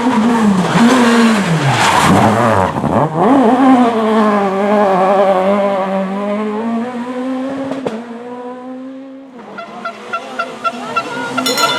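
Rally car engine under hard acceleration. About two seconds in the revs fall steeply and then climb again before holding steady. About nine seconds in the sound cuts to another rally car, quieter at first, its engine revving up and down as it comes closer.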